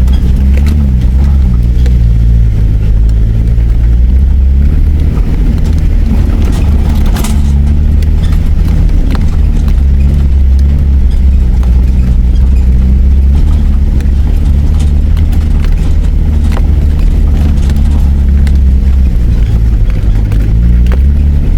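Four-wheel-drive vehicle's engine running steadily under load in low gear up a steep rocky track, its pitch shifting a few times, with scattered knocks and clatter of the tyres and stones over rocks.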